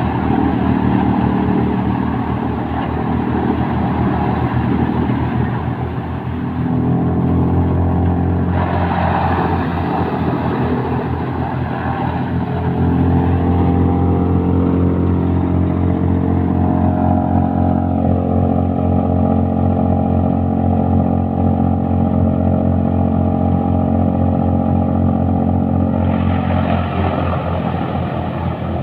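Wood and cotton-stalk chipper running under power, a steady machine drone whose pitch shifts a few times, with a rougher, noisier stretch from about 9 to 12 seconds in.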